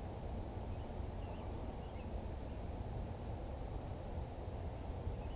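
Outdoor ambience: a steady low rush with a few faint, brief bird chirps about one and two seconds in.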